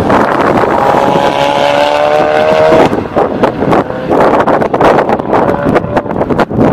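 Car engine accelerating hard past the trackside, its pitch climbing for about two seconds and then dropping abruptly at a gear change about three seconds in, before carrying on lower as the car pulls away. Wind buffets the microphone throughout.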